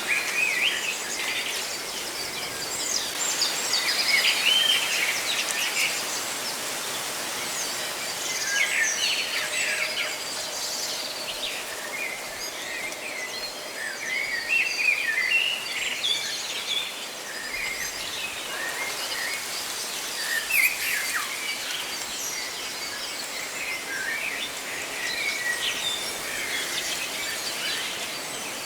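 Several birds chirping and calling in short, scattered phrases, over a steady hiss of rustling leaves.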